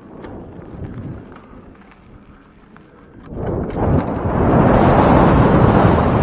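Bicycle riding on a woodland trail: light tyre crunch and ticks at first, then from about three seconds in, loud wind buffeting on the microphone as the bike moves.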